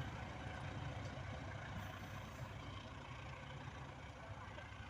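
Diesel locomotive engine running with a steady low hum and a rushing noise over it.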